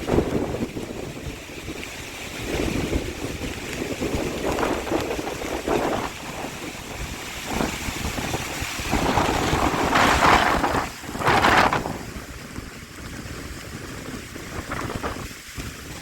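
Severe thunderstorm wind gusts rushing and buffeting the microphone, rising and falling unevenly, with two loudest gusts about ten and eleven and a half seconds in.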